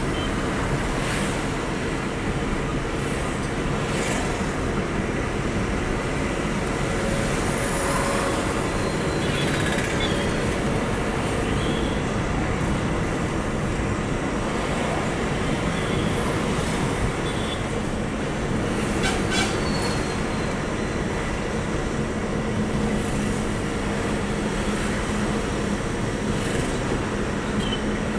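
Loaded truck travelling on the road: steady engine rumble and road noise, with occasional brief clicks and rattles.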